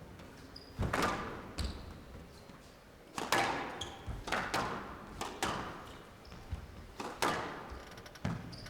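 Squash rally: the ball is struck by rackets and smacks off the court walls, giving sharp irregular thuds every half second to a second, with a few brief shoe squeaks on the court floor.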